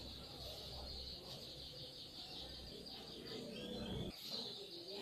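Small birds chirping steadily in the background, a fast chattering twitter, over a low rumble that stops about four seconds in.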